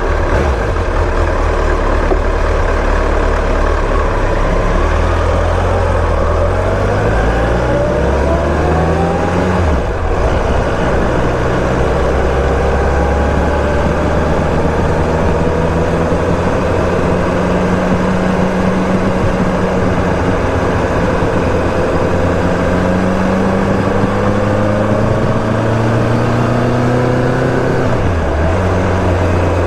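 Kawasaki ZRX1200S inline-four running through a Yoshimura titanium Cyclone exhaust, heard from the rider's helmet while under way. The revs climb steadily in gear and drop sharply at an upshift about ten seconds in and again near the end.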